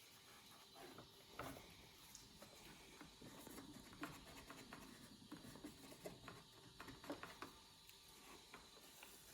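Faint, irregular light clicks and scratching, like small handling noises, over a low steady hiss.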